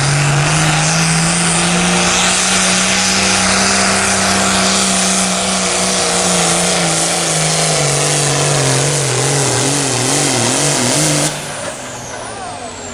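Pulling tractor's engine running flat out under load: the pitch rises slightly at first, holds steady, then wobbles up and down near the end of the run. About eleven seconds in the engine sound drops away sharply, leaving a faint falling whine.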